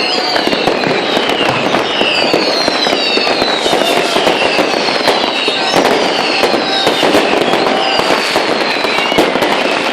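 Street fireworks at New Year's Eve: a dense, continuous crackle of firecrackers and bangs, with many falling whistles from whistling rockets overlapping throughout.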